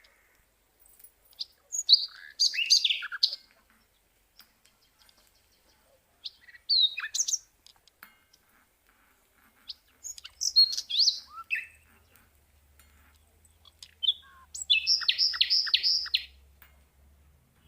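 Small birds chirping and calling in short, separate bursts of high notes, ending with a quick run of about five repeated downward-sweeping notes.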